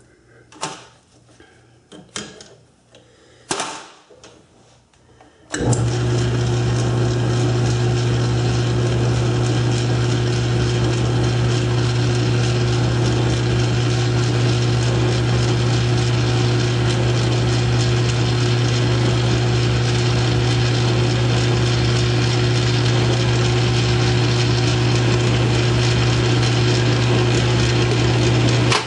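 A few light clicks and knocks, then about five seconds in a South Bend 9-inch lathe starts and runs steadily, with a strong low hum and a rattling drive.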